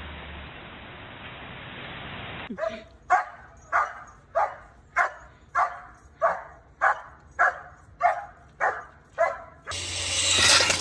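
A dog barking over and over, about a dozen evenly spaced barks, after a few seconds of steady hiss. A louder rushing noise comes in near the end.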